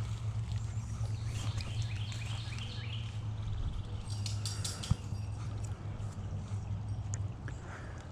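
Outdoor woodland sound: birds chirping over a steady low hum, with rustling, crackling brush and one sharp knock about five seconds in.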